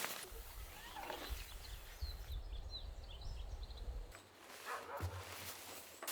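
A few faint, short, high-pitched animal calls over a low rumble.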